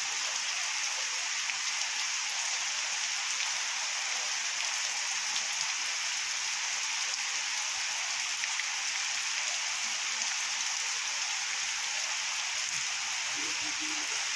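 Heavy rain falling steadily, a constant dense hiss of rain on the ground and on standing water in a flooded courtyard.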